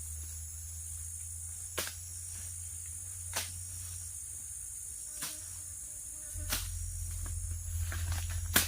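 Steady high-pitched insect chorus in the forest, with a few sharp clicks or snaps about every second and a half, the loudest near the end.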